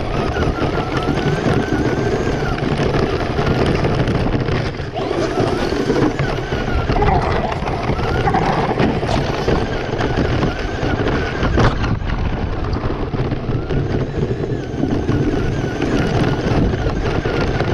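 Traxxas Slash RC truck driving, its motor whine wavering up and down with speed over a steady rough noise of tyres and wind.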